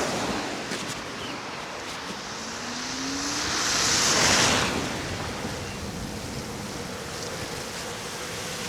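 Steady wind rush on the microphone of a moving electric scooter, with a car passing on the wet, snowy road: its tyre hiss swells to a peak about four seconds in and fades.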